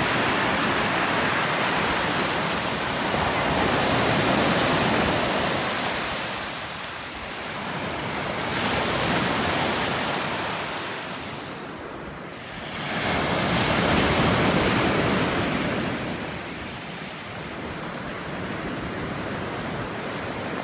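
Sea surf breaking on the shore, a steady rushing that swells and falls back every four to five seconds.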